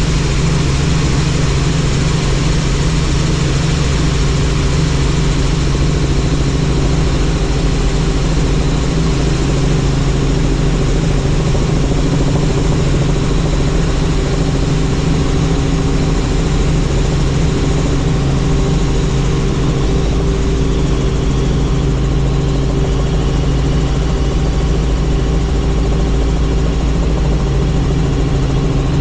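Helicopter engine and rotor running steadily, a constant droning hum with no break. The lowest rumble grows a little stronger about two-thirds of the way in.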